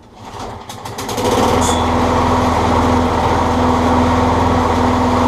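Craftsman push mower's single-cylinder engine being pull-started, catching on the first pull about a second in and then running steadily.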